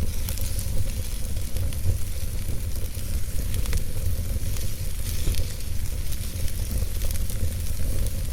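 Wood fire in a fireplace crackling and hissing steadily, with many small sharp pops and a low rumble underneath.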